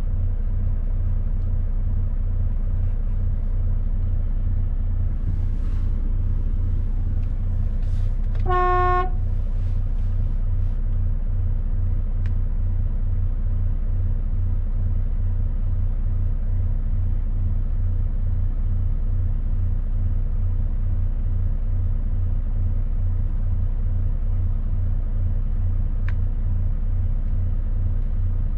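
Mercedes-Benz Actros truck's diesel engine running steadily on the road, carrying 19 tons, a low even pulsing drone. About eight and a half seconds in, a horn toots once, briefly.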